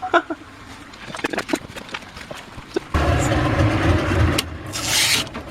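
A boat's motor starts up about three seconds in and runs on with a steady low hum, after a few light knocks. A short loud hiss comes near the end.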